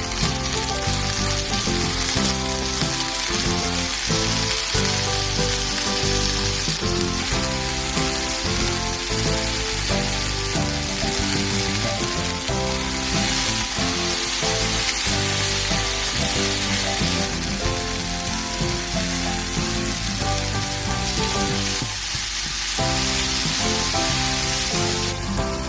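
Diced sausage, peas and sweetcorn sizzling steadily as they fry in a frying pan, stirred now and then with a spatula, under background music.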